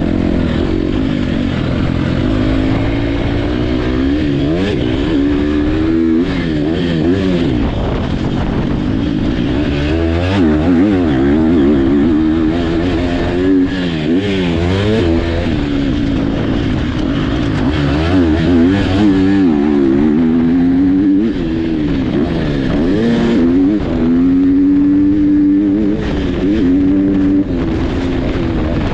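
Several motocross dirt bike engines revving hard and backing off again and again as they race around the track. The pitch rises and falls every second or two, and the engines overlap at different pitches.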